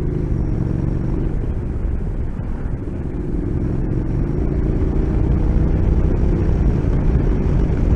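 Motorcycle engine running while riding, dipping slightly before picking up and accelerating from about halfway through.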